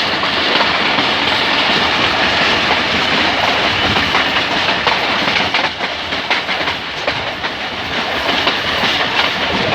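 Passenger train running slowly, its wheels clicking over the rail joints in a steady rolling rattle that eases off slightly in the middle.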